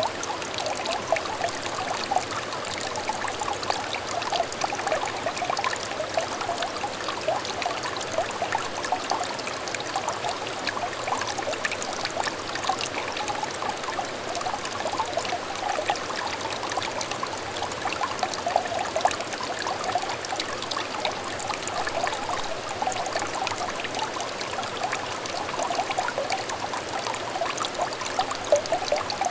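Small stream of water trickling and burbling over stones, a steady gurgling flow with many small splashes.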